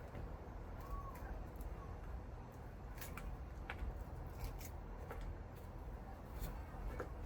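Scattered sharp clicks and snips of scrap wire being handled and cut, over a low steady rumble.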